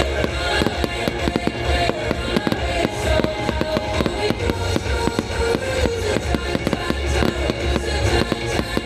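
Fireworks crackling and popping in rapid, dense bursts, many small bangs a second, with music playing underneath.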